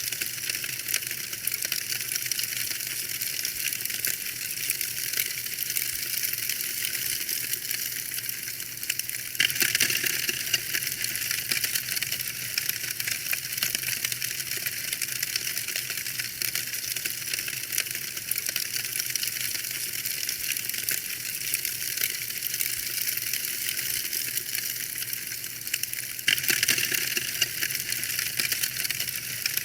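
Wood fire crackling in a fireplace: a dense, unbroken run of small snaps and pops over a steady hiss. It gets a little louder about nine seconds in and again near the end.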